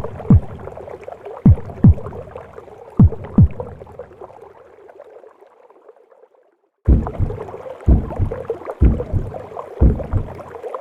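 Womb-sound recording of a heartbeat: low double thumps about every second and a half over a steady whooshing hiss. It fades to a moment of silence a little past the middle, then starts again with the heartbeat thumping about once a second.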